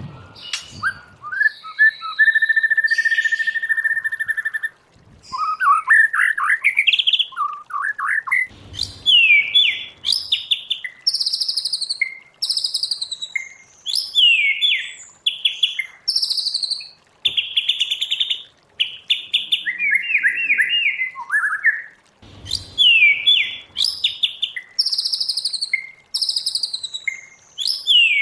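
White-rumped shama singing a long, varied song: clear whistles and quick runs of repeated notes, including a held whistle a couple of seconds in, then many short phrases that slur downward, broken by brief pauses.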